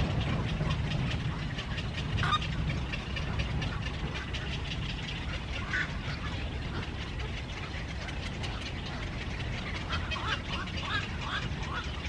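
Birds giving short chirping calls, a few scattered at first and a quick run of them near the end, over a steady low rumble.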